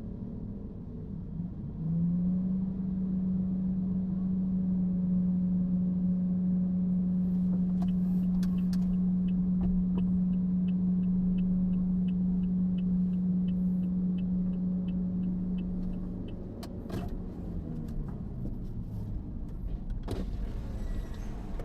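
A vehicle's motor starts up with a steady hum about two seconds in and runs evenly, with a faint regular ticking for part of the time. Near the end it winds down, falling in pitch, and stops, followed by a few clicks.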